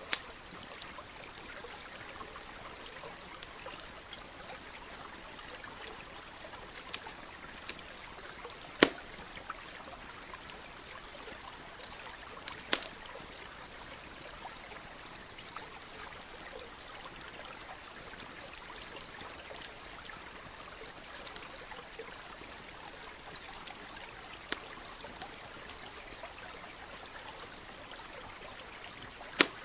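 Campfire crackling, with scattered sharp pops at irregular moments, the loudest about nine seconds in, about thirteen seconds in and just before the end, over the steady rush of a stream.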